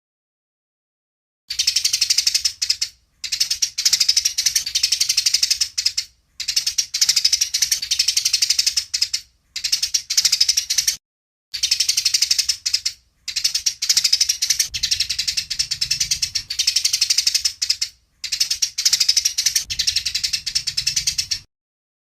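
Eurasian tree sparrows (burung gereja) giving fast, harsh chattering chirps: the agitated calls of sparrows fighting. The chatter comes in repeated bouts of one to five seconds, separated by short pauses.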